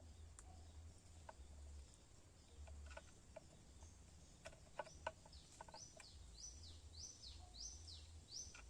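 Near silence with a low rumble and scattered small clicks; in the second half a bird calls over and over, about five short sharp notes a little over half a second apart.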